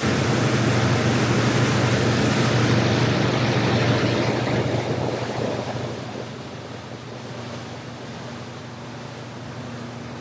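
Wind rushing over the microphone together with water noise, over the steady low hum of the boat's motor; the rush starts suddenly, is loudest for about six seconds, then eases to a lower steady level.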